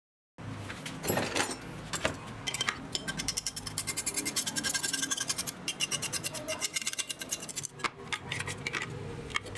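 Rapid scratching and scrubbing strokes, many a second, starting about half a second in, as a part is scrubbed or scraped during cleaning.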